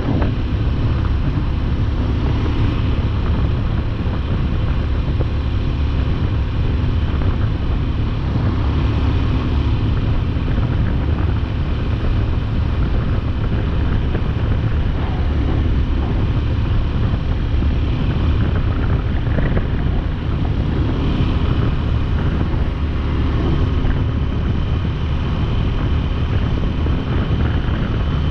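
Wind rushing over the microphone and a motorcycle running at a steady cruising speed, with an even, unbroken noise heavy in the low end.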